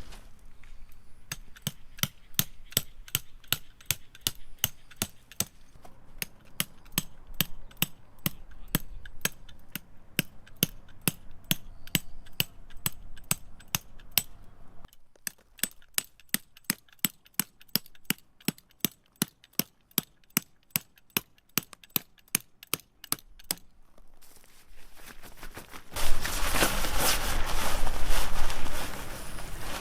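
A long, even series of sharp strikes, about three a second, with a short break midway. They stop near the end, and a louder noisy rustling follows.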